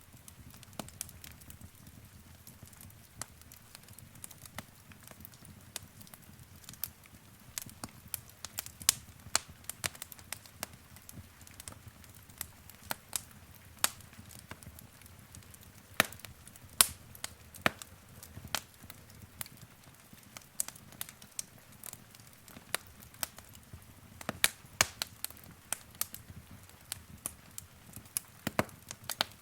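Wood fire crackling in a fireplace: irregular sharp pops and snaps, several a second at times, over a faint low hiss of the flames.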